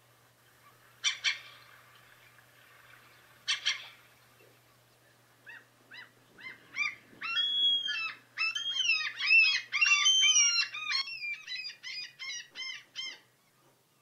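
Birds calling: two short, harsh double calls a couple of seconds apart, then from about halfway a fast, busy run of chattering calls that thins out and stops near the end.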